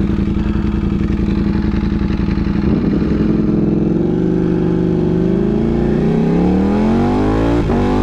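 Ducati Panigale V4 engine through a Competition Werkes GP race exhaust, riding at a steady note, then accelerating with the pitch climbing for several seconds. There is a brief break in the note near the end.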